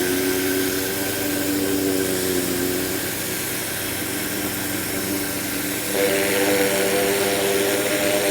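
Ryobi 1600 PSI electric pressure washer running: a steady motor-and-pump hum under the hiss of the water spray. The sound gets louder and brighter about six seconds in.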